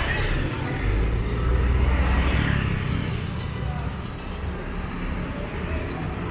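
Street traffic, with a motor vehicle passing close: its low engine rumble swells about a second in, is loudest around two seconds in, then fades. People's voices mix in.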